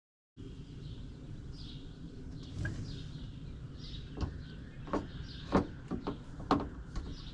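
Small birds chirping repeatedly over a steady low rumble of outdoor background noise. In the second half come five or six sharp taps or knocks, louder than the chirps.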